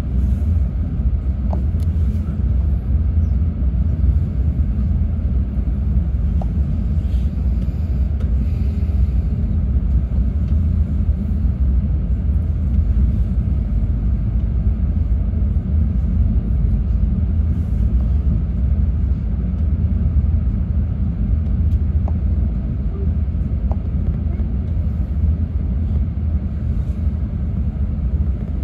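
Steady low running rumble of an E6-series Komachi shinkansen train heard from inside the passenger cabin as it runs on the conventional Ōu Main Line track, with a few faint ticks.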